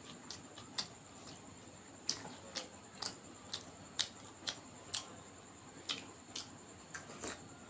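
Close-up eating sounds of someone chewing a mouthful of duck curry and rice: sharp, wet mouth smacks, irregular at first, then about two a second.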